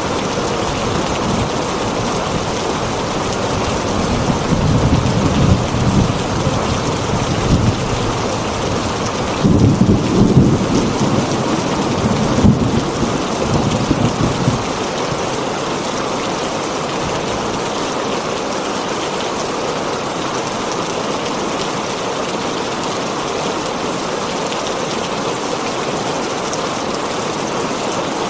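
Heavy rain drumming steadily on a tin roof, with a low rumble of thunder rolling in about four seconds in, loudest around ten seconds and fading out by about fourteen seconds.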